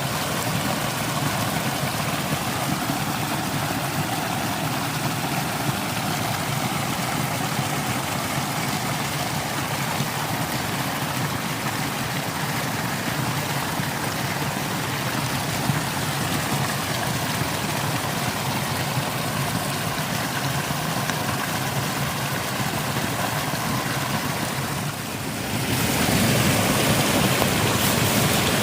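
Steady rush of water from a small forest waterfall and its stream. The sound grows louder and brighter near the end.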